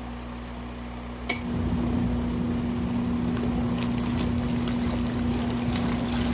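Small portable washing machine washing a load in hot water at a high water level: a steady motor hum with water churning in the tub. About a second in there is a click, after which the motor and the sloshing water get louder.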